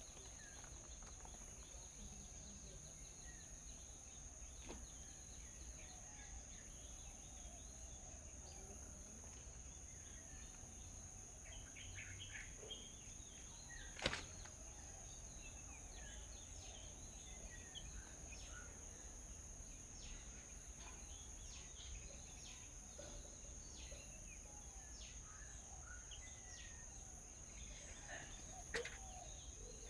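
Faint birds chirping in short, scattered calls over a steady high-pitched whine, with one sharp click about halfway through.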